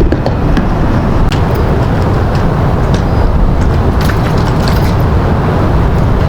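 Steady road and engine noise of a semi-truck driving, with a few faint ticks over it.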